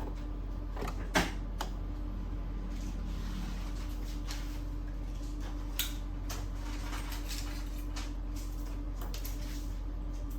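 Sharp plastic knock about a second in and a lighter click near six seconds, with faint scattered ticks, from parts of an inkjet printer being handled, over a steady low hum.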